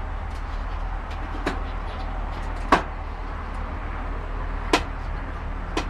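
Four sharp clicks and knocks spread through, the loudest a little under halfway, from the catering truck's side compartment doors and panels being handled, over a steady low hum.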